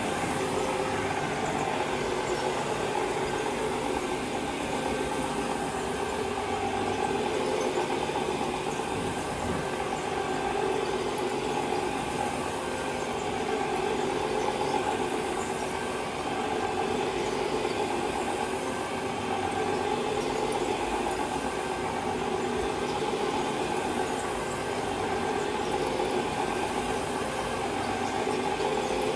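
Electric carpet-cleaning machine running steadily on carpet, a constant motor hum with a faint swell in its hiss every few seconds as it is worked back and forth.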